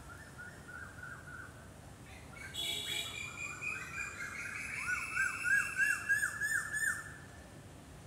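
A bird singing: a run of quick rising notes, a louder cluster of call notes about two and a half seconds in, then a fast series of rising-and-falling notes, about five a second, which is the loudest part and stops about a second before the end.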